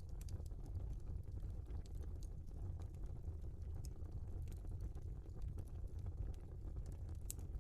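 Wood fire burning in a fireplace, crackling with scattered sharp pops over a steady low rumble; one louder pop comes near the end.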